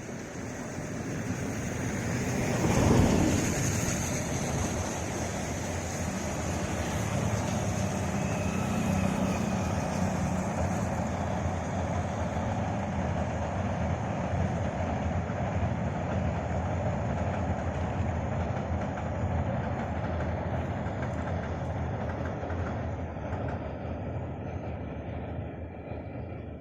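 A train passing on a railway line: a long, steady rumble of wheels on the track that builds over the first few seconds, is loudest about three seconds in, and fades away near the end.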